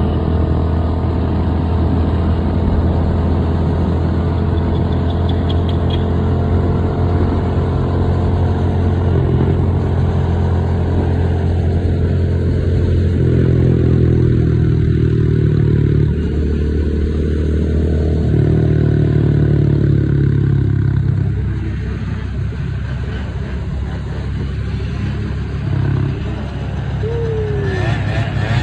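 Motor vehicle engine running steadily with a low, even drone, shifting slightly in pitch midway and easing off a little about three-quarters of the way through.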